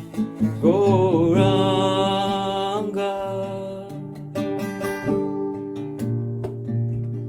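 Kirtan music: plucked-string accompaniment under a singing voice that glides up into one long held note about a second in, then the accompaniment carries on alone.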